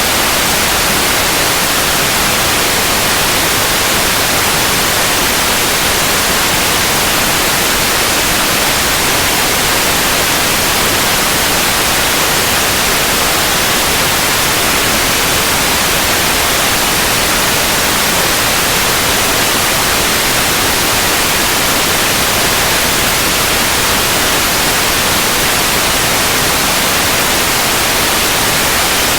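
Continuous synthetic white noise: an even, unchanging hiss across the whole range, strongest in the high frequencies.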